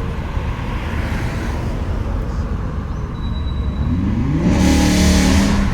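A car engine rumbling, then revving up with a rising pitch about four seconds in, joined by a loud rushing exhaust sound that is the loudest part.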